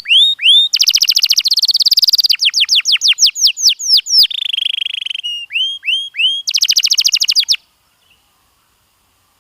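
Domestic canary singing: phrases of quick rising and falling whistled notes, rapid trills and a buzzy roll, each phrase lasting about a second. The song stops suddenly about two seconds before the end.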